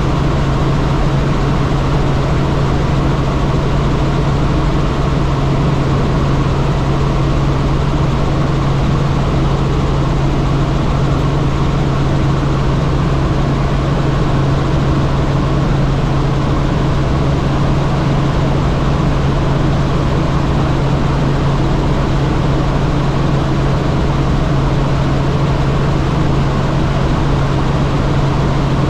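Helicopter in flight: a steady, loud drone of engine and rotors with a strong low hum.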